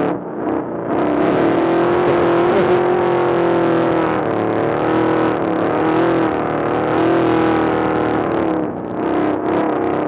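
Trophy truck's race engine running hard at high revs, its pitch wavering and dipping a few times as the throttle changes.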